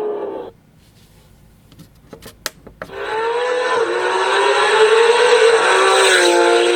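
Porsche 911 GT3 RS flat-six engine: the revs fall away and the sound cuts out about half a second in, a few sharp clicks follow, then the engine comes back loud at about three seconds, revs climbing under load, with a gear change dropping the pitch right at the end.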